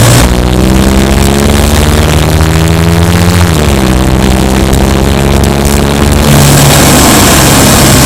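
Subaru Impreza Sport's flat-four engine running under load. Its pitch climbs slowly for about three seconds, drops, then holds steady.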